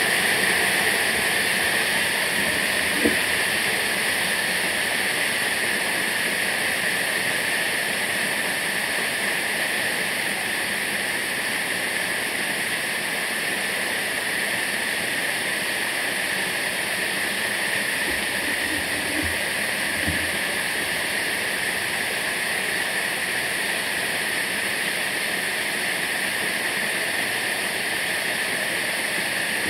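Waterfall: a steady rush of falling water, with a couple of faint knocks.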